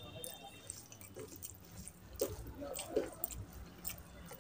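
Wet, sticky eating sounds of a mouthful of rice and oily mutton curry being chewed, with scattered small smacks and clicks. Fingers squelch as they mix rice with curry on the plate.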